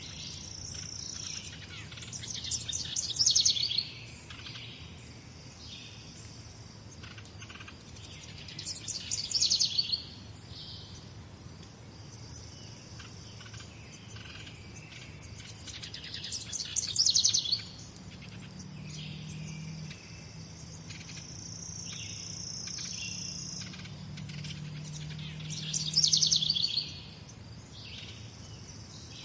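A songbird singing a loud, high phrase about every seven to eight seconds, four times, with quieter chirps from other birds in between and faint, very high pulsing chirps in the background.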